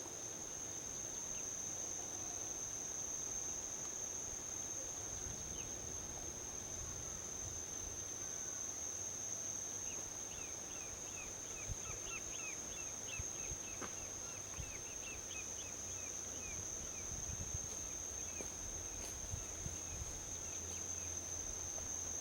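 A steady high-pitched trill of crickets over the low rumble of distant highway traffic. In the middle, a bird gives a long run of quick, short chirps for several seconds.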